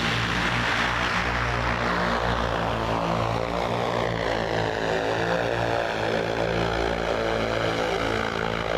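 Aircraft propellers droning steadily, with a hiss that slowly falls in pitch.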